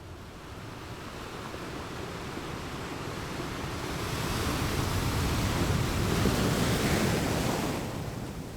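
Ocean waves breaking: the surf rises over several seconds, peaks a little past the middle, then eases off near the end.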